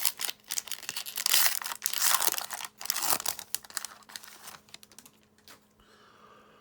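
Wax paper crinkling and tearing as it is unwrapped from a stack of trading cards, in quick, crackling handfuls that die away about five seconds in.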